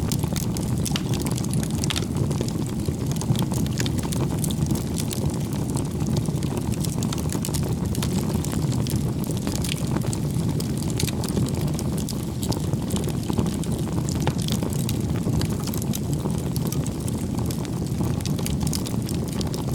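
Campfire burning: a steady low rush of flames with frequent sharp crackles and pops of burning wood at irregular intervals.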